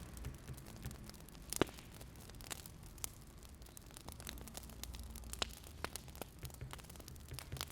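Wood fire crackling: sharp, irregular pops, the loudest about one and a half seconds in, over a low steady rumble.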